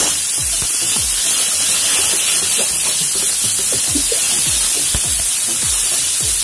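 Crushed garlic and ginger sizzling in hot oil in a frying pan as they are stirred, with a steady hiss, under background music.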